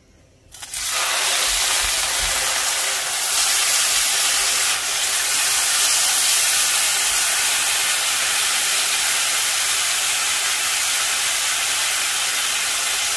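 Marinated chicken breasts sizzling loudly in a hot ridged grill pan, a steady hiss of the wet marinade searing. The sizzle starts suddenly about a second in, as the meat goes into the pan.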